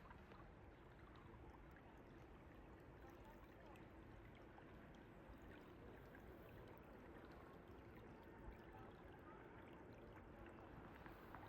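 Faint, steady rushing of a flowing mountain stream.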